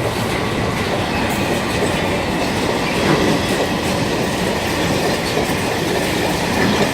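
Freight train wagons rolling steadily past at close range, their wheels clicking over the rail joints, with a faint steady squeal from the wheels.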